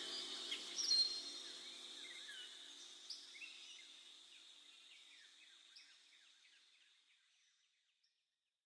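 Bird chirps over the last sustained tone of a song, which ends about three seconds in; the chirps thin out and fade to silence about seven seconds in.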